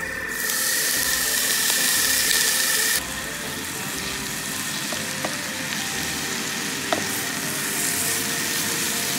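Grated zucchini strands sizzling in hot oil in a non-stick frying pan as they are stirred with a wooden spatula into textured soy filling. The sizzle swells about half a second in as the zucchini goes into the oil, then drops to a steadier fry about three seconds in, with a couple of light knocks of the spatula on the pan.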